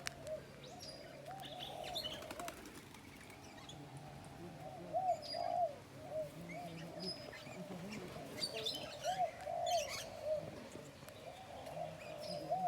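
A bird close by calling in short arched notes of one pitch, repeated in loose groups, with scattered sharp taps and fluttering.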